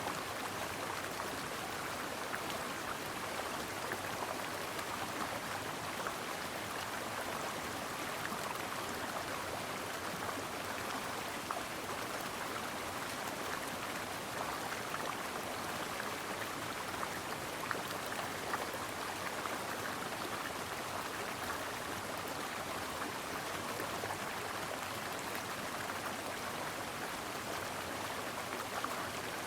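Brook water running steadily over stones: a continuous burble with many small splashes and droplet ticks.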